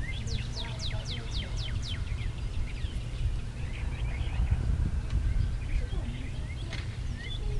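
A songbird singing a quick run of high whistled notes, each sliding down in pitch, about five a second for under two seconds, then scattered chirps. Underneath is a steady low rumble of wind on the microphone.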